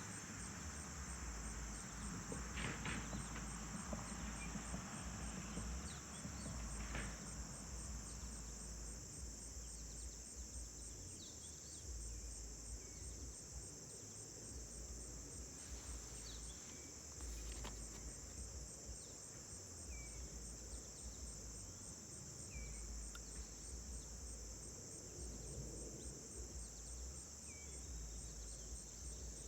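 Steady, high-pitched chorus of insects, with a few short, faint bird chirps now and then. A low rumble comes and goes underneath.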